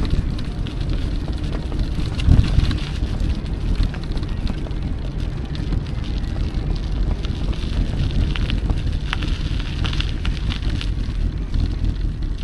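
Wind buffeting the microphone over the rumble of an electric mountain bike rolling along a trail, with scattered light ticks and a heavier bump about two seconds in.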